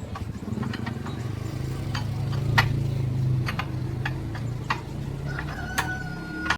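Sharp metal clinks and taps at irregular intervals over a steady low hum, with a short ringing note near the end.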